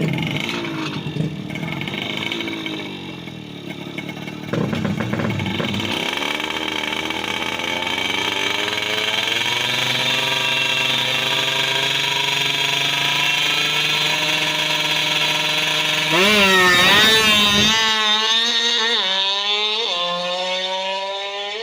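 Tuned Yamaha F1ZR two-stroke engine, bored to 120cc, revving: the revs waver for the first few seconds, then climb steadily for about ten seconds, blip up and down a few times, and fall away near the end.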